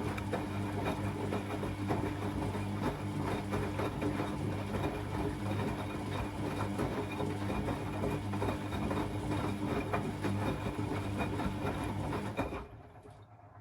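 Beko WA 1050 washing machine running with a steady hum and a busy rattle, then stopping suddenly near the end.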